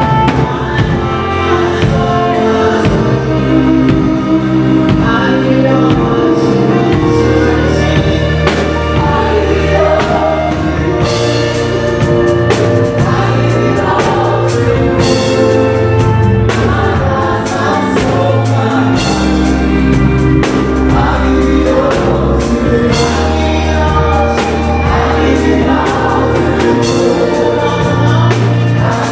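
Gospel worship song: a group of singers over bass and drum kit, with a steady beat.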